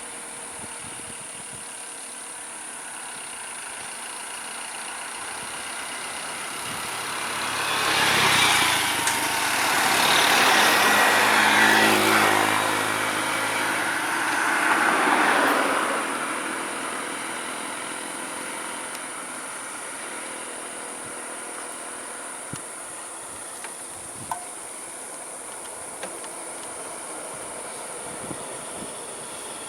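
A motor vehicle's engine grows louder, passes close and fades away, loudest from about 8 to 16 seconds in, over a steady high-pitched hiss.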